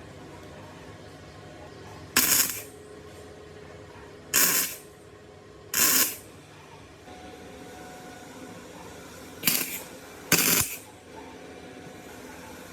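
Workshop handling noise from restoring a two-stroke water pump: five short, loud, hissing bursts, each about half a second long and spaced one to four seconds apart, over a faint steady background hum.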